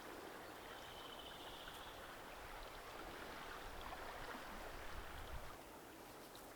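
Faint, steady rush of a forest stream's running water. About a second in, a short high trill sounds once.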